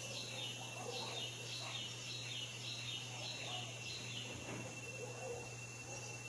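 A bird calling in a quick series of short, falling high notes, about two a second, that stops about four seconds in. Underneath run a steady high thin whine and a low steady hum.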